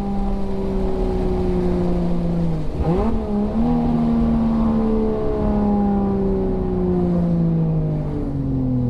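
A 600 hp Mk4 Toyota Supra's 2JZ inline-six engine holds a steady note. About three seconds in the note breaks briefly and jumps up in pitch, and after that the revs slowly fall away as the car slows in gear.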